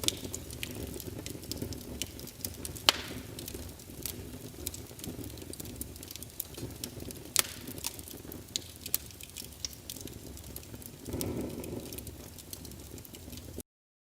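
Fireplace fire crackling, with scattered sharp pops over a low rumble. It cuts off suddenly shortly before the end.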